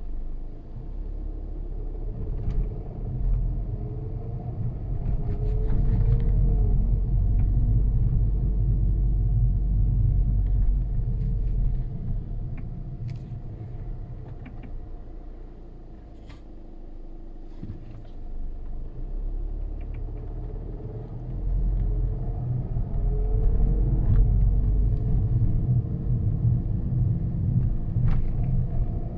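Skoda Superb II with a six-speed DSG gearbox pulling away and speeding up twice, its engine and drivetrain rumbling louder, easing off in between, with a pitch glide at each build-up as the gearbox shifts. A rattle comes before the shifts, which the owner suspects comes from the dual-mass flywheel.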